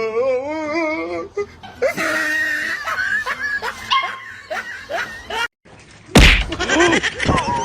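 A dog's wavering, pitched cry, with people laughing. About six seconds in, after a sudden cut, comes a loud sudden burst, followed by more voices.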